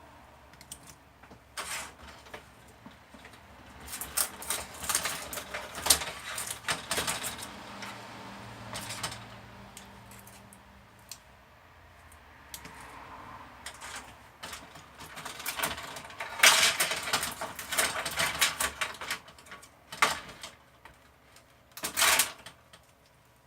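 Hard plastic and metal parts of an LED TV being handled during backlight LED strip replacement: two long stretches of quick, irregular clicking and rattling, then two sharp knocks near the end.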